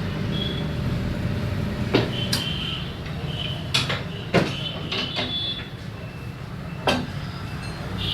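A steady low machine hum with about seven sharp metallic knocks and clanks, and short high squeaks between them, as in tyre-shop work.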